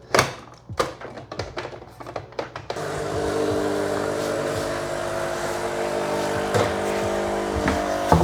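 A few clicks and knocks as the machine and its water reservoir are handled, then, about three seconds in, a Nespresso machine's pump starts and runs with a steady hum, pushing fresh water through on a Lungo rinse cycle.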